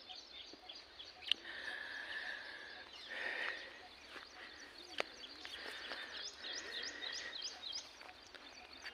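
Small birds chirping in the background: runs of quick, high, short chirps, busiest in the second half, with a faint steady whistling tone coming and going and a sharp click about five seconds in.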